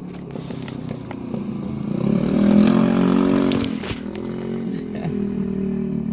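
A motor vehicle's engine running close by, growing louder to a peak between about two and four seconds in, then settling to a steadier, lower level.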